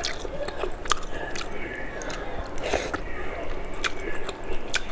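Close-miked ASMR eating: a person biting and chewing food, with several sharp crisp bites about a second apart between wet chewing sounds.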